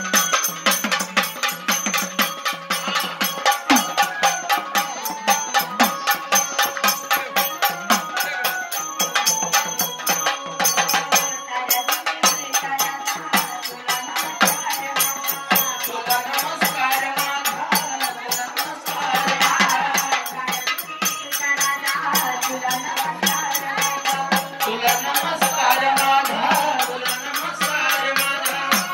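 Marathi devotional folk song to Kal Bhairavnath, carried by a fast, steady beat of rattling, jingling percussion under a wavering melody.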